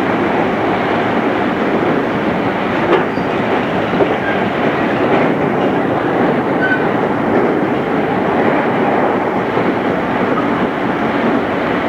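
Running noise inside a JR East 211 series electric train car at speed: a steady rumble of wheels on the rails, with a couple of sharp clicks over rail joints about three and four seconds in.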